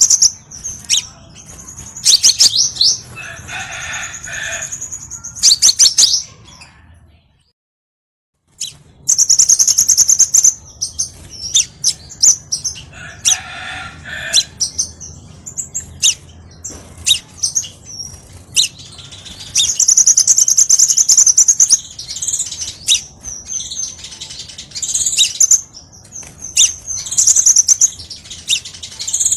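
Crimson sunbird song: rapid, high-pitched chirps and twittering trills, phrase after phrase. The track drops to silence for about a second, roughly seven seconds in.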